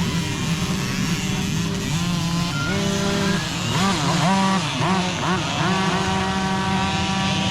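Several small mini dirt bike engines running at once, their pitches rising and falling as the throttles are worked, with a cluster of quick revs in the middle.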